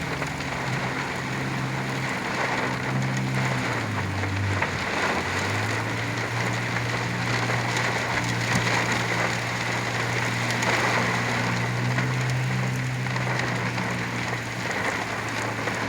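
Very heavy rain pouring down on a truck during a derecho thunderstorm, a dense steady hiss, with the truck's engine humming low underneath.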